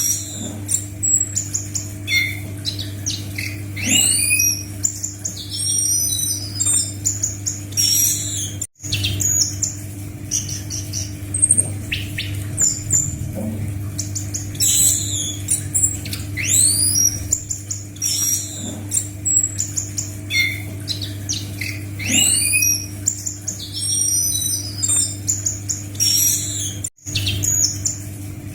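Anis macan thrush singing vigorously: a fast, varied string of sweeping whistles, up- and down-slurred notes and chattering chirps, with a steady low hum beneath. The song cuts out briefly twice, about nine seconds in and near the end.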